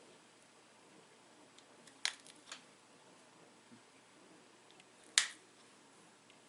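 Sharp clicks of flakes snapping off a small dacite arrowhead under pressure flaking: a quick cluster of three about two seconds in, and one louder click about five seconds in.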